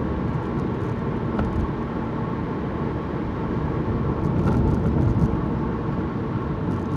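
Car driving on the road, heard from inside the cabin: a steady low rumble of engine and tyres, swelling slightly about four seconds in.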